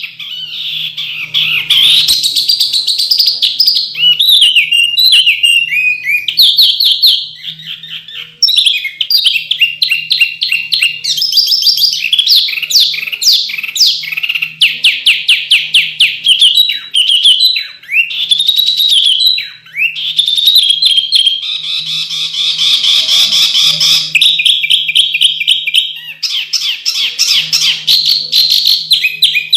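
Songbird masteran recording: a bird singing a dense, almost unbroken song of sharp, rapid trills and chirps in high-pitched bursts, with only brief pauses. A faint steady low hum runs underneath.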